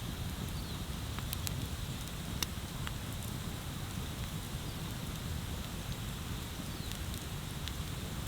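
Wood bonfire burning with a steady low rumble and hiss, and a few sharp crackles and pops, the loudest about two and a half seconds in.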